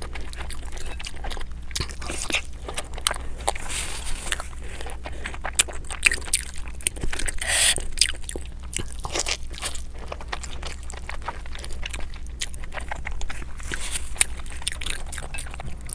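Close-miked eating: biting into and chewing crisp-fried meat tacos soaked in broth, with wet crunching and mouth clicks, a few louder crunches about halfway through.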